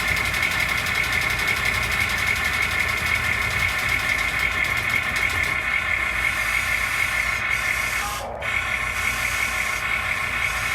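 Radio-controlled construction machines running: a steady high-pitched mechanical whine with a fast rattle, briefly cutting out about eight seconds in.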